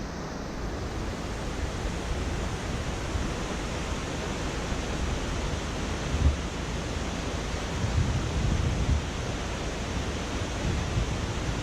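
Steady rushing road and wind noise from a moving car, with a few low thumps along the way.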